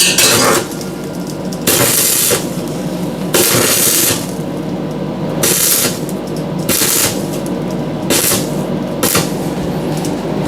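Stick (arc) welding: the arc crackles and hisses in about seven short bursts of a quarter to half a second each, like tack welds, over a steady low hum.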